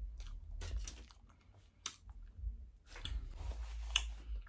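A person chewing a bite of soft Hershey's chocolate cream pie, with a few short clicks.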